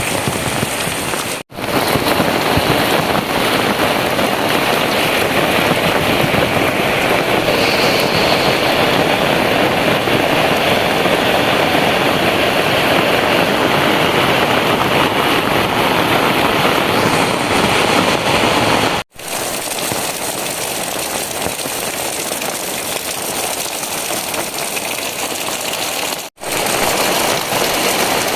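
Heavy rain pouring down in a steady, loud hiss, cut off for an instant three times.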